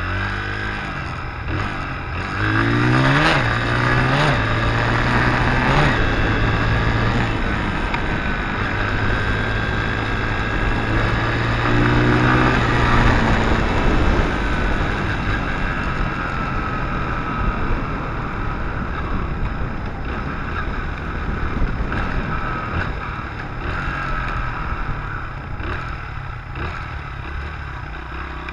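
Dirt bike engine running under way, revving up twice, about three seconds in and again near the middle, then easing off.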